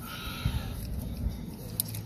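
Small engine parts and fuel hoses being handled during carburetor reassembly: a brief faint squeak at the start, a few soft knocks, then a sharp click near the end.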